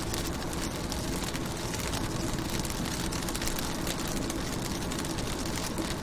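Rain falling on a car's windows and roof, heard from inside the car: a steady rush with a low rumble beneath it and many small drop ticks.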